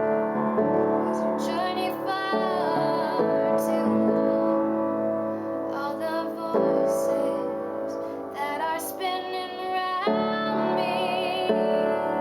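A female voice sings a slow ballad over her own piano accompaniment, holding some notes with vibrato, recorded through a camera's built-in microphone.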